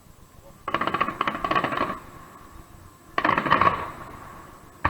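Fireworks crackling overhead: two bursts of rapid crackles, each about a second long, then a single sharp bang near the end.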